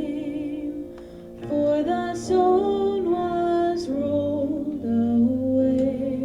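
Live praise band playing a contemporary worship song: a woman's voice sings long held notes with vibrato, stepping in pitch, over guitar and keyboard accompaniment.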